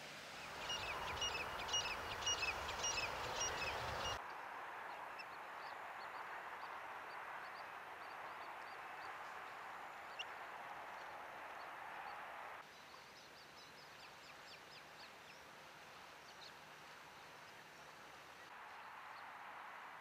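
Birds calling in a rapid series of short, high notes over a steady outdoor hiss for the first four seconds. After that, only a few faint scattered chirps sound over the hiss, which drops quieter about two-thirds of the way through.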